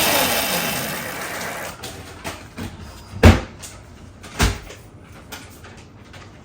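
Electric motor and drive of a Razor MX125 kids' motorcycle spinning down with a falling whine, fading over the first second or two. Then two loud knocks a little over a second apart, with a few lighter clicks.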